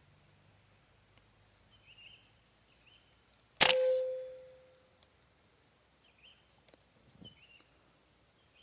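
A single PCP air rifle shot about three and a half seconds in: a sharp crack with a short ringing tone dying away over about a second. Faint chirping calls before and after it.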